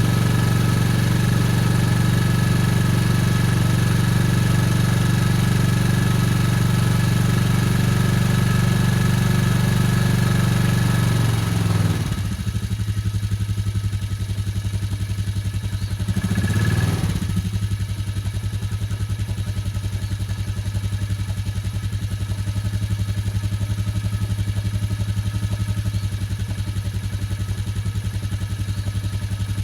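Cold engine idling fast after a cold start, then settling to a lower idle about twelve seconds in, with one brief surge in revs a few seconds later before it runs steady again. The engine is running rough from the cold, still warming up.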